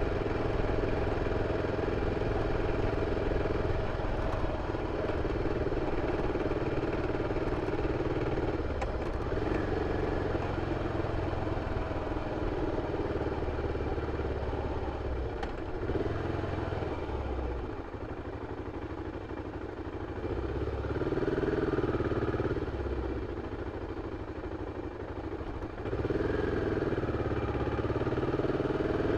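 BMW F 650 CS single-cylinder engine running through its original exhaust. It drops quieter for several seconds past the middle and then picks up again near the end.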